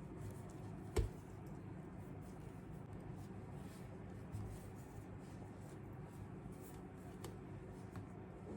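Small handling sounds: one sharp knock about a second in, then a few faint clicks and taps over a low steady hum.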